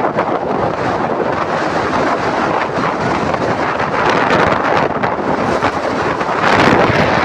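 Wind buffeting the microphone: a loud, rough rushing noise with no clear tones, swelling a little near the end.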